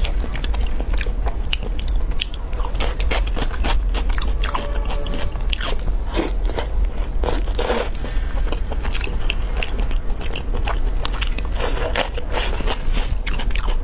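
Close-miked eating of braised pork belly with chopsticks: wet chewing, biting and lip smacks, many short sharp clicks coming irregularly. A steady low hum runs underneath.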